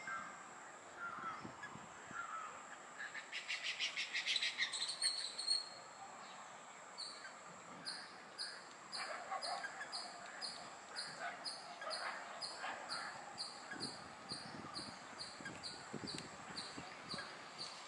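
Several wild birds calling: a fast high trill about three seconds in, then a high note repeating about twice a second through the rest, over scattered lower calls.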